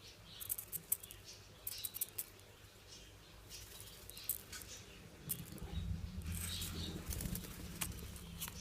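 A hungry young dove flapping and fluttering its wings in short bursts while begging for food, in soft rustling clusters. A low rumble joins about five seconds in.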